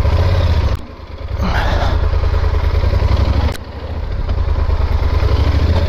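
Yamaha Super Ténéré 1200's parallel-twin engine pulling hard in three throttle surges, with brief drops about a second in and past the halfway point, as the stuck bike is driven to get it free.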